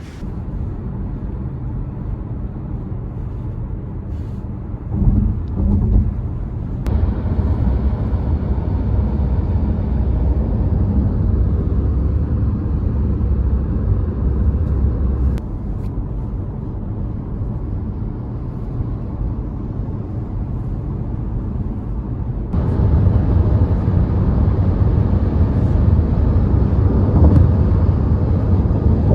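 A car driving: steady low road and engine rumble. The sound changes abruptly three times where separate clips are joined.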